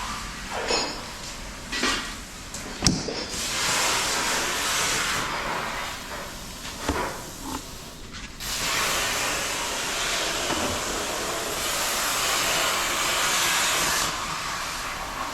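A loud, steady hiss in long stretches, broken by a few short knocks and clanks.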